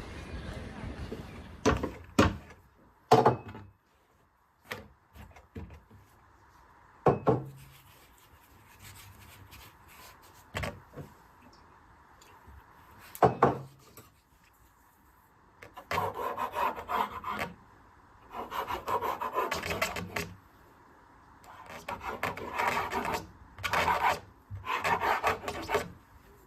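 Several sharp knocks, then four bursts of rasping scraping of one to two seconds each in the second half.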